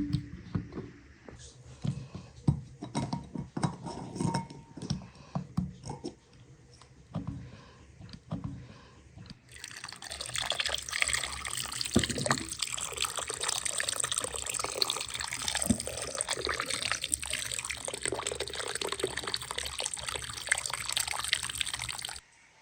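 A series of light knocks and clicks, then about ten seconds in, water starts running and splashing steadily. It cuts off suddenly near the end.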